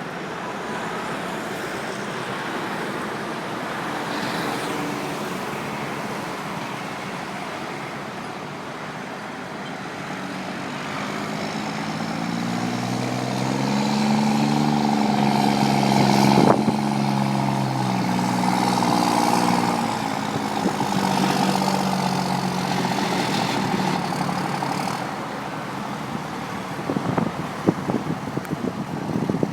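Volkswagen 24.250 truck's diesel engine pulling away, its note growing louder and rising in pitch from about ten seconds in, holding strongest in the middle, then fading as it moves off. A single sharp click comes at its loudest, and a run of short knocks near the end.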